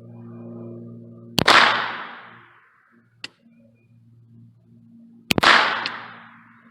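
Two shots from an AR-15 pistol firing .22 rimfire through a conversion kit, about four seconds apart. Each is a sharp crack followed by a long echo that fades away. A steady low hum runs beneath them.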